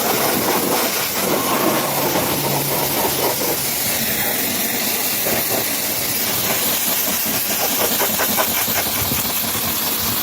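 Steady hiss of a high-pressure water jet spraying onto a truck.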